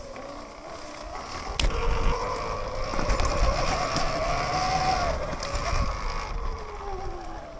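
Sur-Ron electric dirt bike's motor whining while riding, its pitch rising for the first few seconds, holding, then falling away near the end as the throttle eases. Scattered clicks and knocks run through it, loudest around the middle.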